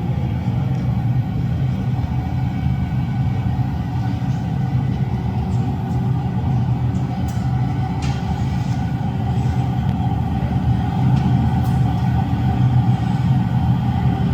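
Glassmaking furnace burners running with a steady low rumble, with a few faint clicks over it.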